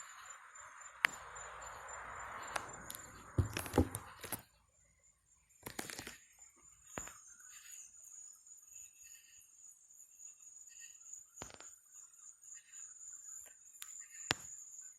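Night insects trilling steadily, a high continuous buzz. Over it come several sharp knocks and clicks from the phone being handled, loudest around four seconds in, and a soft rushing noise that stops at about the same time.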